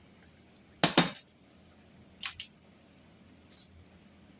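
Cooking utensil clinking against cookware in short sharp taps: two about a second in, two more a little after two seconds, and a fainter one near the end.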